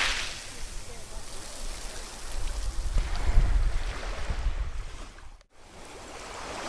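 Ocean waves washing on a shore: the hiss of a broken wave dies away at the start, a low rumbling swell comes around three seconds in, and the sound cuts out for an instant about five and a half seconds in before the next wave builds near the end.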